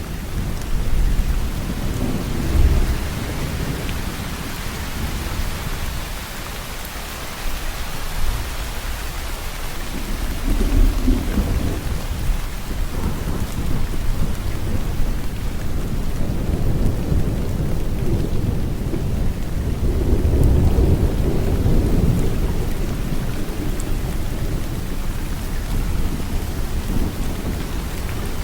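Steady heavy rain with rolls of thunder: a constant hiss of rain, with low rumbles swelling about a tenth of the way in, again near the middle, and most strongly about three quarters of the way through.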